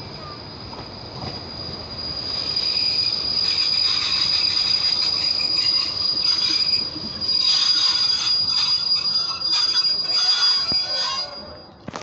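Electric commuter train ET.109 of the Cumana line pulling into the platform and slowing to a stop, with a steady high-pitched squeal. The running noise and rattle grow louder about two seconds in, and everything cuts off as the train halts near the end.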